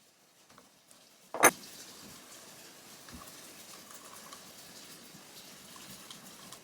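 A single loud, sharp pop about one and a half seconds in, then a steady faint buzzing, ticking hiss: a miniature four-stroke petrol model engine firing and running.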